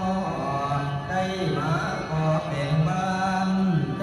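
Accompanying music for a Thai ritual offering dance: a solo voice sings long, drawn-out, gliding notes in a chant-like style over a steady instrumental backing.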